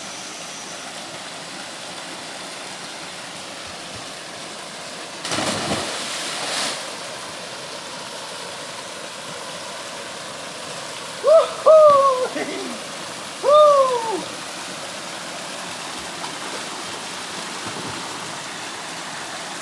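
Waterfall rushing steadily, with a splash about five seconds in as a diver enters the water. Around eleven to fourteen seconds in come three short whooping cries that rise and fall in pitch.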